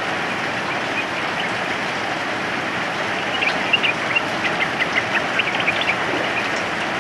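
Steady hiss of falling rain, with a yellow-vented bulbul giving a run of quick, short chirping notes from about three seconds in until about six seconds.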